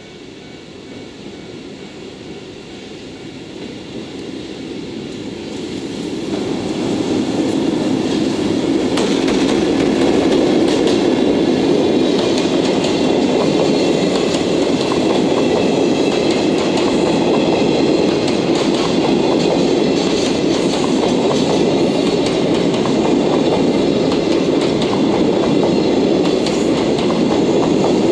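EF65 electric locomotive approaching and passing, followed by its long train of Chiki flatcars loaded with long welded rails rolling by with a steady clickety-clack of wheels over the rail joints. It grows louder over the first seven seconds or so as the locomotive nears, then holds steady as the wagons pass, with a thin high squeal from the running gear laid over it.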